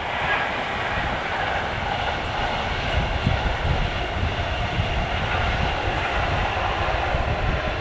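Passenger train passing along the main line, a steady roar of wheels on rail, with wind buffeting the microphone.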